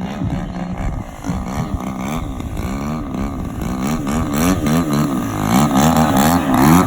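DLE 60 two-stroke gasoline engine of a large aerobatic RC plane running in flight. Its pitch rises and falls quickly and repeatedly, and it grows louder toward the end.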